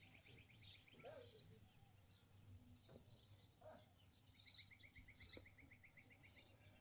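Faint birdsong: scattered chirps from several birds, with a fast, even ticking trill that runs for about two seconds past the middle.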